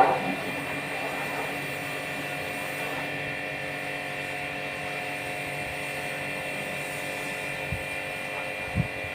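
Steady machine hum with several steady pitched tones, as from a running motor, holding level throughout. A brief loud sound right at the start and two soft low thumps near the end.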